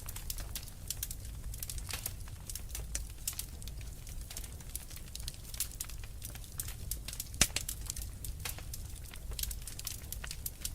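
Wood fire in a fireplace crackling, with frequent small pops and one sharper pop about seven seconds in, over a steady low rumble.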